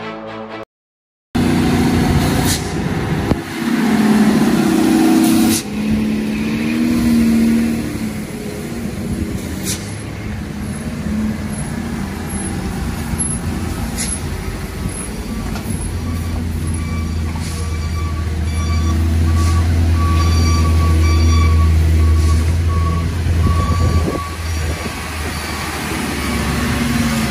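Heavy truck engines running on a road, with sharp air-brake hisses early on and a deep steady engine drone later, while short beeps repeat faintly in the background.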